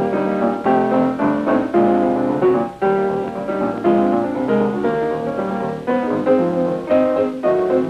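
Piano music accompanying a silent film, lively notes played in quick succession.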